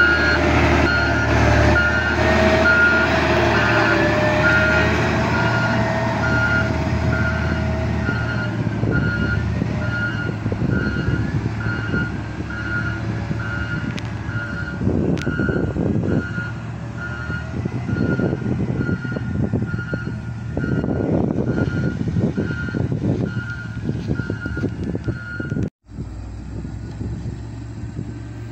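A dump truck's reversing alarm beeps in a steady repeating pattern over its diesel engine running, and stops shortly before the end.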